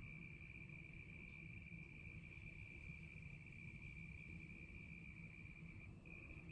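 A cricket's faint, continuous high-pitched trill, holding one steady pitch and breaking off for a moment near the end, over a faint low background rumble.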